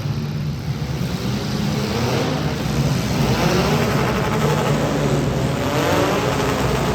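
Demolition derby cars' engines running and revving, several pitches rising and falling over one another, a little louder from about three seconds in.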